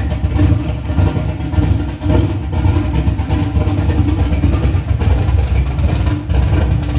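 A car engine running loudly, with a deep, uneven pulsing.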